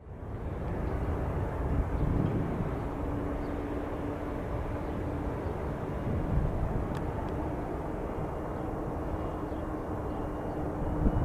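Distant jet engines of an Airbus A300-600F freighter on approach: a low steady rumble with a faint steady hum above it.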